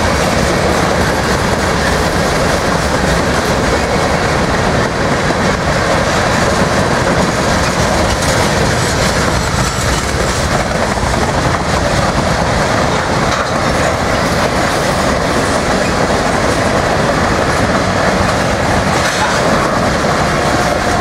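Freight train of loaded covered hopper cars rolling past close by: steady loud rolling noise of steel wheels on the rails.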